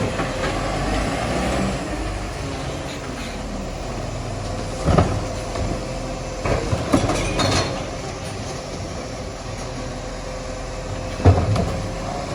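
Garbage truck running steadily with a constant hum, broken by heavy knocks about five, seven and eleven seconds in.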